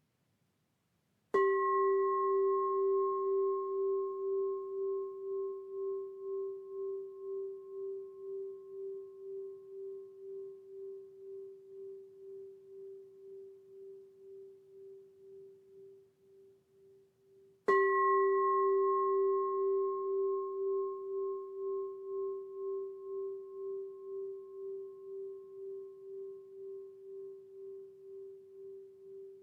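A singing bowl struck twice, about a second in and again some sixteen seconds later, each strike ringing on as a long, slowly fading low tone with a slow wavering pulse and fainter higher overtones.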